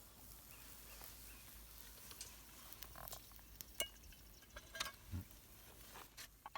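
Scattered faint clicks and taps over a low steady background, with a brief low voice-like grunt about five seconds in.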